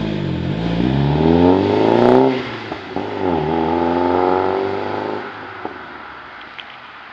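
Saab 9-3 with a Stage 1 tune and a 3-inch turbo-back exhaust, its engine note climbing in pitch, dropping sharply a little over two seconds in, climbing again, then dying away after about five seconds.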